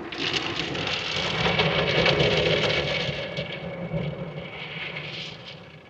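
Automatic car-wash spray of hot wax drumming on the vehicle's body and glass, heard from inside the cabin. It swells in the first couple of seconds, then eases off near the end.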